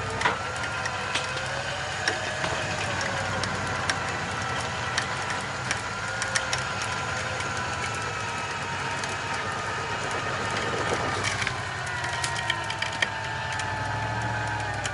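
A 12,000-pound electric winch, running off a marine battery, whines steadily as it pulls the truck up the slope. Its pitch sinks about eleven seconds in, with scattered sharp clicks and snaps throughout.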